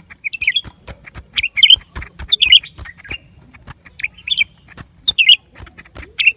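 Blue-winged leafbird calling: short, loud chattering phrases repeated about once a second, with sharp clicks between them.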